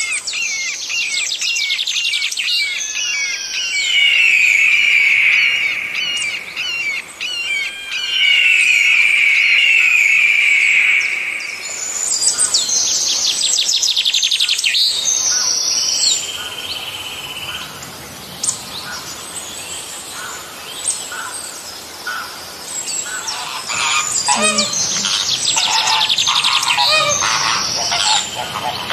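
Birds calling: a run of high chirps, chattering trills and whistled notes, changing several times from one kind of call to another.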